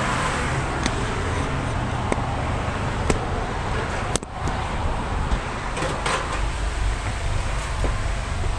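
Steady road traffic noise with a low rumble, broken by several sharp clicks and knocks, the strongest a little past the middle.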